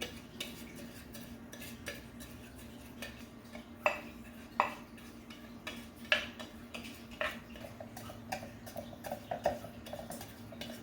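Kitchen utensils clinking and scraping against cookware: light taps throughout, with about half a dozen sharper metallic clinks.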